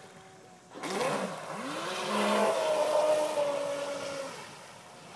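Radio-controlled model boat's motor running at speed, its whine rising and falling in pitch with the throttle and growing louder then fading as the boat passes by.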